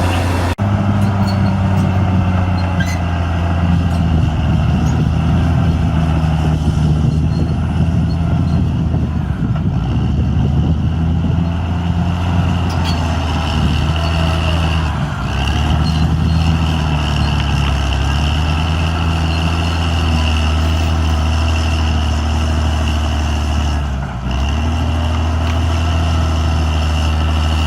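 Caterpillar D6R XL bulldozer's diesel engine running steadily under work, its pitch dipping briefly twice, once about halfway through and once near the end, before recovering.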